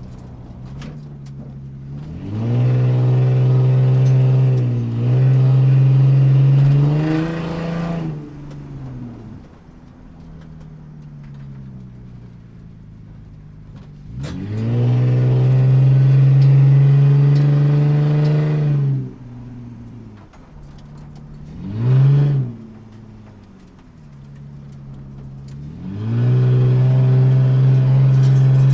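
Car engine heard from inside the cabin, pulling hard under acceleration several times: the revs climb about two seconds in, dip briefly and climb again, then fall back to a low rumble. A second long pull comes around the middle, a short sharp rev blip a little later, and another pull near the end.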